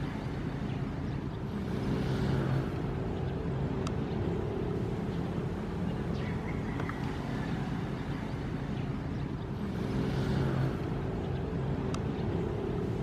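Ocean waves washing in with a steady low rumble. The surf swells twice, about eight seconds apart.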